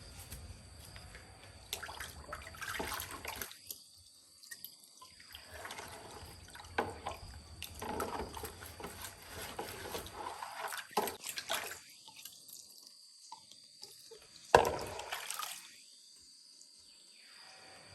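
Water splashing and dripping in irregular bursts, with a few sharp clicks and short quiet gaps in between.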